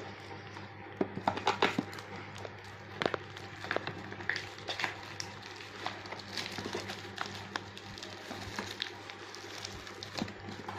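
A parcel's wrapping being pulled open by hand: irregular crinkling and rustling with scattered sharp clicks and crackles.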